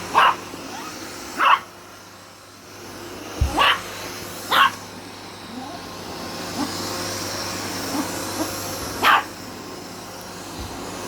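Chihuahua barking at a running vacuum cleaner: about six short, sharp barks, two of them close together about three and a half seconds in. Underneath, the vacuum cleaner's motor hums steadily and grows louder about three seconds in.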